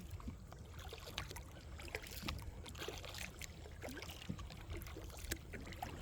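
Kayak paddling: a paddle dipping into the water with small splashes, drips and light knocks, over a steady low rumble.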